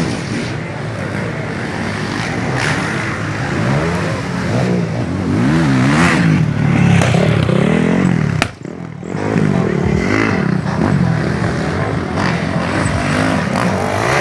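Motocross dirt bike engines revving, pitch rising and falling as the riders work the throttle, with a brief drop in the sound about eight and a half seconds in.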